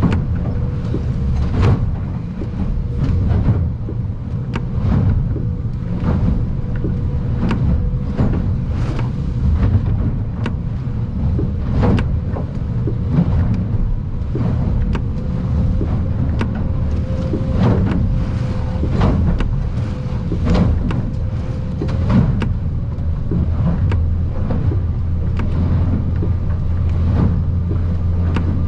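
Aluminium boat under way in rough water: a steady low engine drone with irregular knocks and thumps every second or so as the hull bangs through the swells. Near the end the drone grows stronger and a higher steady tone joins it.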